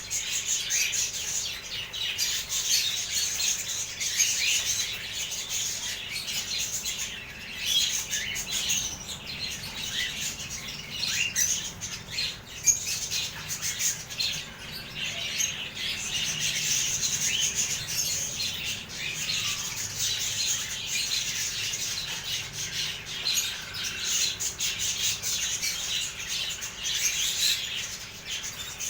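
A flock of Gouldian finches chirping together, a dense, unbroken chatter of many short high chirps.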